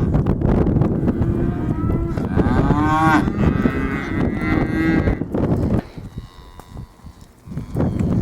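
Several cattle mooing, their calls overlapping, over a loud rushing noise that cuts off about six seconds in.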